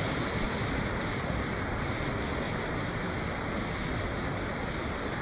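Steady, even rain noise with no separate drops or thunder standing out.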